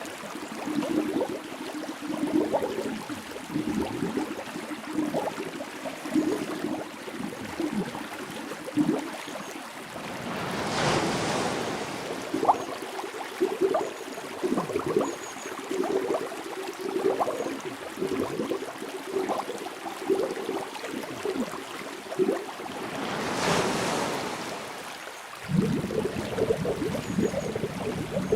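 Underwater ambience: a constant run of short bubbling, gurgling blips, with a slow swell of rushing water about ten seconds in and another about twelve seconds later.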